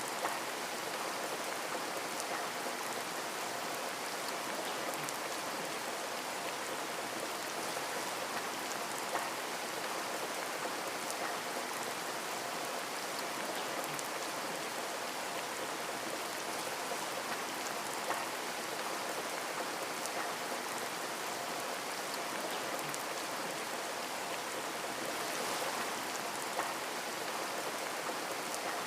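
Steady rain falling, with individual drops ticking against a window pane; a few slightly louder drop hits stand out now and then.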